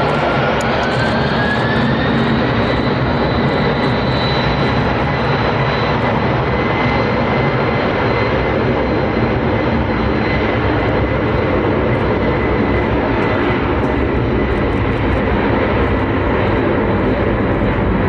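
Three-engine jet airliner's engines running loud: a whine rises in pitch over the first two or three seconds and then holds steady above a constant roar.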